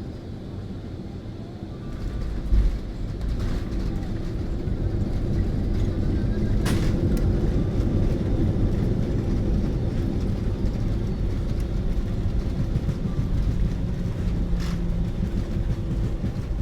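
Airliner cabin noise through touchdown: a sharp thump about two and a half seconds in as the wheels meet the runway, then a louder steady rumble of the landing roll, with a couple of brief rattles in the cabin.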